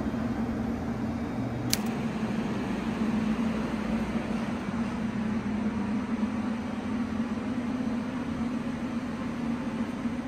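Electric express train's steady mechanical hum with a rush of air, as from its on-board equipment and air conditioning, with one sharp click about two seconds in.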